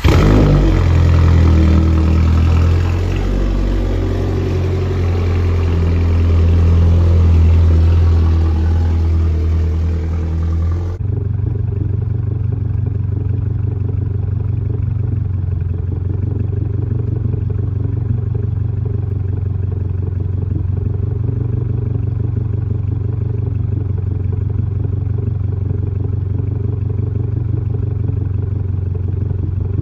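Subaru VB WRX's turbocharged 2.4-litre flat-four engine running: for about the first eleven seconds it is louder, with its pitch stepping up and down, then after an abrupt change it idles steadily.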